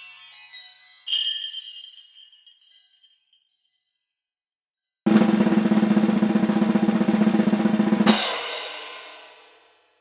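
Comedy sound effects: a chime struck about a second in rings out and fades, then after a short silence a snare drum roll of about three seconds ends in a cymbal crash that rings out.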